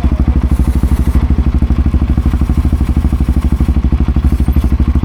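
Motorcycle engine idling with a steady, rapid, even pulse.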